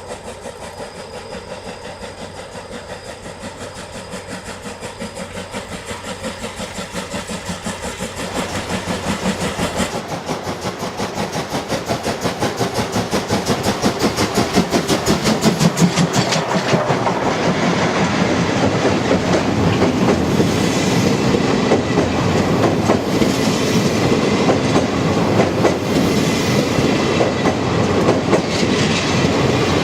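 C57 steam locomotive working a train, its exhaust beats coming in a quick steady rhythm and growing louder over the first half. The sound then holds loud as the train runs by with the clatter of wheels on the rails.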